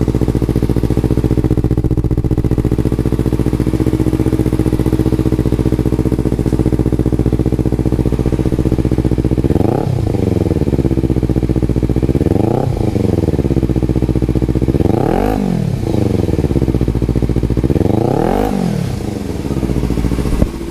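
Kawasaki Z300 parallel-twin engine idling through an aftermarket Musarri exhaust with its baffle removed, then blipped four times, about three seconds apart, in the second half, each rev rising sharply and falling back to idle.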